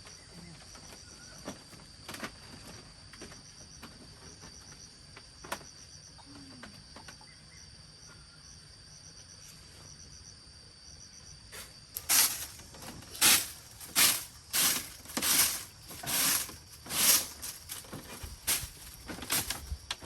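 Insects, crickets among them, chirring steadily with a high, pulsing trill. About twelve seconds in, a quick run of loud swishing strokes begins, roughly one to two a second, and drowns out the insects.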